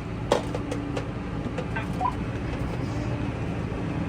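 Massey Ferguson 5S.145 tractor engine running steadily with a low hum. A sharp click comes about a third of a second in, followed by a few lighter clicks and a short beep around two seconds in.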